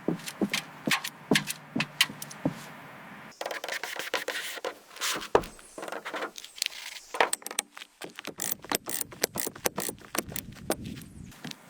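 A busy series of sharp clicks and knocks mixed with scraping, as of hard objects being handled and rubbed together, growing denser in the second half.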